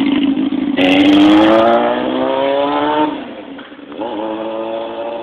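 Honda CBR600F3's inline-four engine running with its exhaust pipe removed, really loud. Its pitch climbs as it accelerates, drops suddenly about three seconds in, then picks up again and holds steady.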